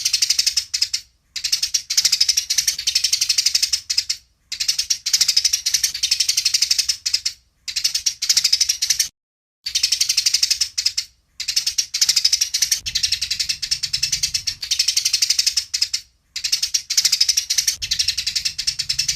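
Eurasian tree sparrows chattering in fast, high chirp runs: the fighting chatter of sparrows squabbling. It comes in about seven bursts of one to five seconds, with short breaks between them.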